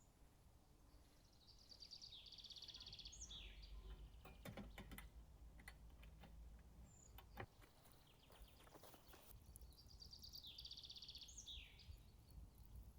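A songbird in the woods singing the same short phrase twice, a quick trill of notes ending in a falling note, over faint forest ambience. A few faint clicks come between the two phrases.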